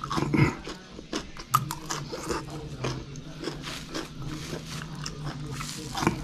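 Close-up mouth sounds of a person eating raw vegetables and rice: irregular wet chewing, crunches and lip smacks. A low steady hum runs underneath.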